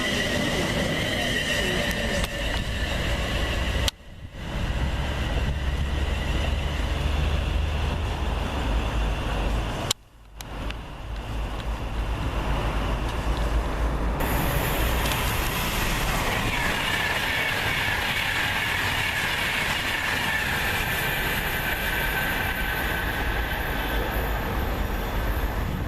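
Trains running through a main-line railway station: steady rail noise with high-pitched whining tones that slowly fall in pitch. The sound cuts out abruptly twice, about four and ten seconds in.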